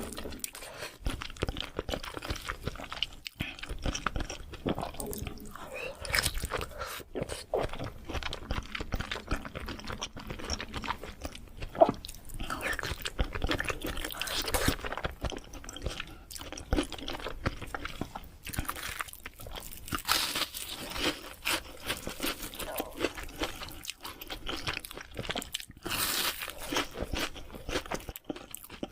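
Close-miked eating sounds of sushi: continuous wet chewing and biting with crunchy, crackling mouth noises, and one sharp loud click about twelve seconds in.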